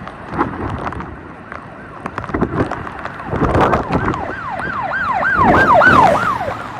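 Wind buffeting the microphone, then about halfway through a siren joins in with a fast yelp, its pitch swooping down and up about three times a second and growing louder until shortly before the end.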